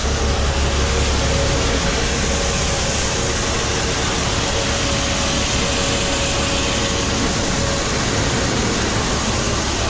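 Grain-unloading machinery running steadily, a constant mechanical noise with a low hum and a steady mid-pitched tone through it.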